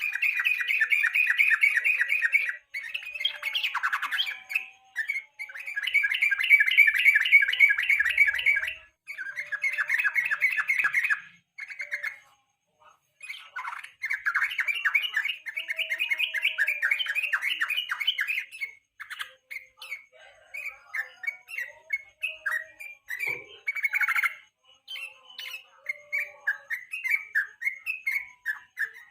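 Yellow-vented bulbul (trucukan) singing: fast chattering runs of repeated notes in phrases a few seconds long with short pauses between them, giving way to shorter separate notes in the last third.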